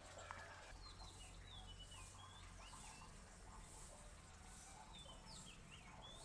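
Faint background birdsong: short whistled chirps sliding down and up in pitch, in two brief groups, over a faint low hum.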